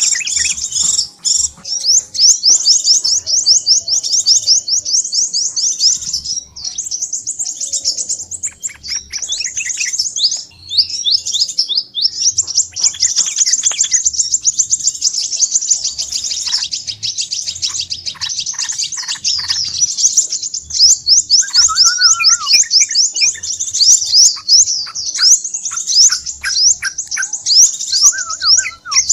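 Crimson sunbird (sepah raja) calls in a lure recording: a dense, fast, high-pitched twittering trill that runs on almost without a break. Some lower, separate call notes join in from about two-thirds of the way through.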